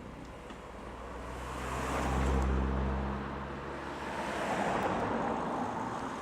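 Audi cars driving past one after another, their engines and tyres swelling to loudest about two seconds in and again about five seconds in.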